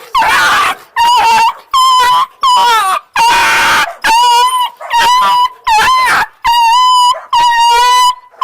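Unsocialized puppy screaming in distress: loud, high-pitched cries repeated about ten times, each under a second, with one harsher, rasping cry about three seconds in.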